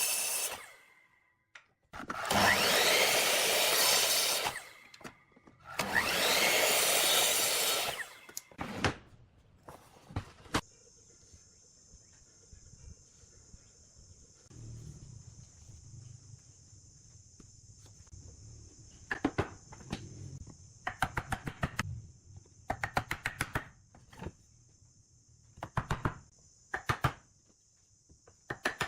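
Woodworking tool sounds: two long, loud bursts of a power tool cutting wood early on. From about two-thirds in come short clusters of rapid sharp taps on wood, several bursts separated by pauses.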